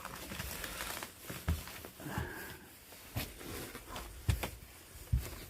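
A few scattered footsteps and knocks, about five, spaced roughly a second apart, with faint crackling between them and a brief faint squeak about two seconds in.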